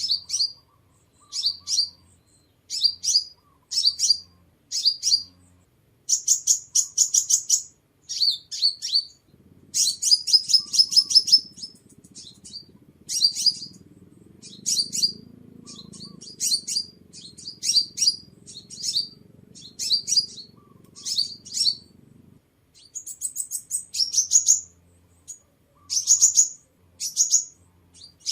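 Crimson sunbird calling: short, sharp, high-pitched chirps repeated about once a second, broken by quick chattering runs of notes.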